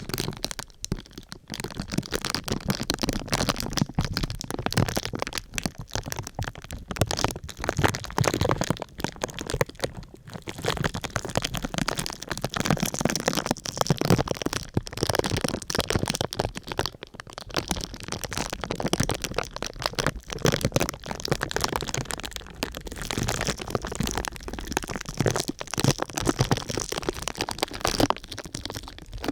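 Crinkly sheet material being crumpled and rubbed by hand: a dense, continuous crackling.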